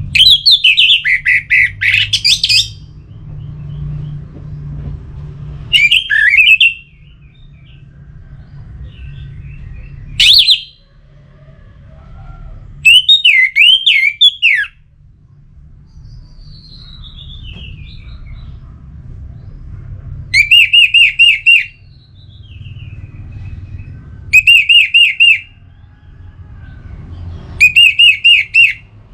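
Orange-headed thrush (anis merah) singing in loud, short bursts of whistled, warbling phrases a few seconds apart; the last three phrases are alike. A steady low rumble runs underneath.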